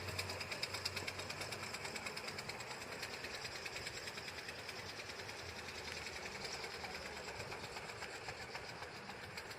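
Ford Quadricycle's small two-cylinder gasoline engine running while the car drives along, a quick, even clatter of about six beats a second that slowly grows quieter.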